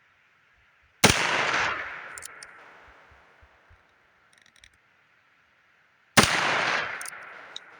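Heritage Rough Rider single-action revolver firing .22 Magnum (.22 WMR), two shots about five seconds apart, each sharp crack followed by a ringing tail that dies away over a second or so. Faint clicks fall between the shots.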